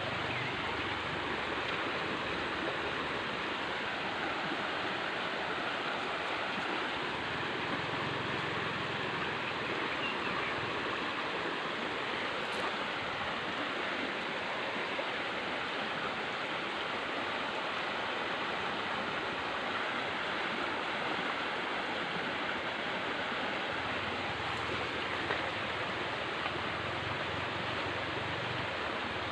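River water rushing and splashing in a steady, even rush.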